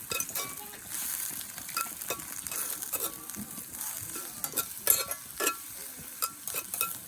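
Food sizzling steadily in a cast-iron skillet over a campfire, with scattered sharp clinks and taps of a metal utensil against the pan, some ringing briefly.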